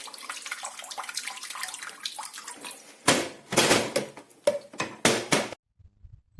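Water spraying from a battery-powered portable camping shower's head and splashing, then from about three seconds in a series of loud gushes, cutting off suddenly near the end.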